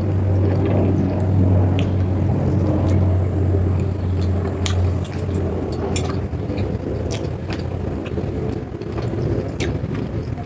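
Close-up eating sounds: chewing with scattered sharp mouth and food clicks, over a steady low hum that drops away about five seconds in.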